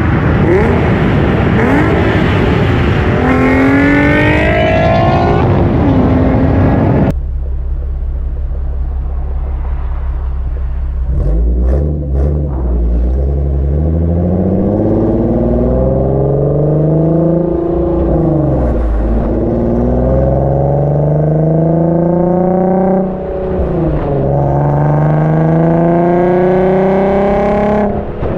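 Nissan 370Z's 3.7-litre V6 through a Motordyne Shockwave exhaust with ART pipes, revving hard. After a sudden change about seven seconds in, it accelerates through the gears, its note climbing and dropping back at each shift several times.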